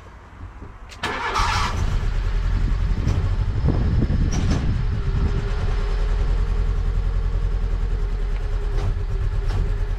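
Fiat Punto mk1 petrol engine cranking briefly and catching about a second in, then running rough and not happy with a misfire, which the owner puts down to HT leads fitted round the wrong way.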